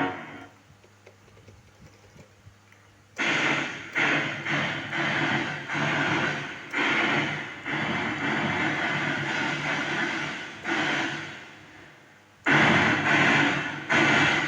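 Recorded audio played back: about three seconds of low sound with faint ticks, then a run of loud, irregular pulses that each fade away, roughly one or two a second, with a short lull before a last loud stretch near the end.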